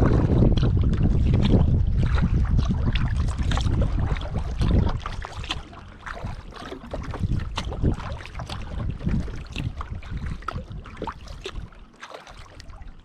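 Kayak paddle strokes: water splashing and dripping off the paddle in many small irregular splashes. Wind rumbles on the microphone for about the first five seconds, then drops away.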